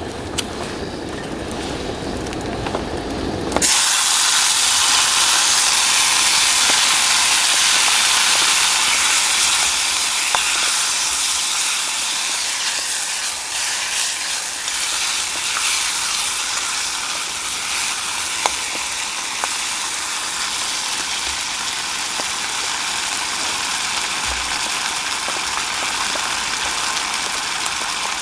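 Food sizzling in a hot iron Chinese wok: a loud, steady, high sizzle with small crackles that starts suddenly a few seconds in. Before it, a lower rumbling noise.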